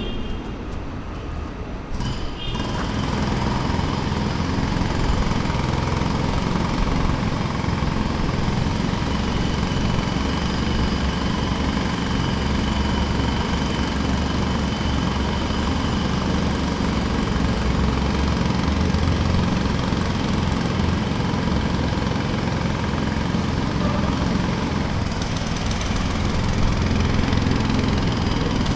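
Jackhammer hammering in a very fast, even rapping, louder and steady from about two seconds in.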